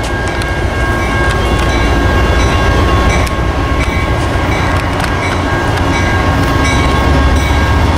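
GE P42DC diesel locomotive running with a low rumble and a steady high whine, a few clanks scattered through.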